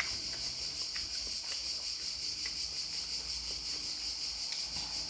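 Steady high-pitched chirring of insects, likely crickets, running unbroken, with a few faint light clicks scattered through it.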